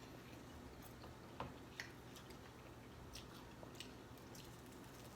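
Faint chewing and biting of fried chicken wings, with a few scattered soft clicks and smacks, the sharpest about a second and a half in.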